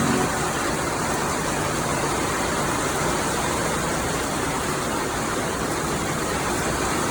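Heavy rain pouring down steadily during a thunderstorm, an even hiss with no breaks.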